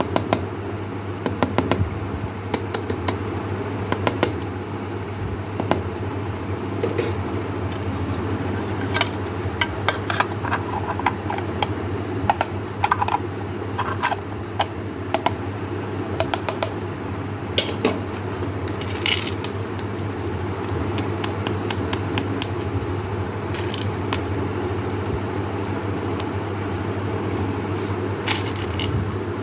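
Irregular small clicks and clinks of hard objects being handled, thickest in the middle and thinning out later, over a steady low hum.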